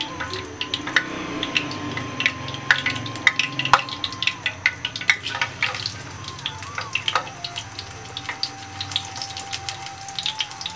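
Batter-coated potato slice frying in hot oil in a nonstick pan: sizzling with a steady stream of irregular crackling pops.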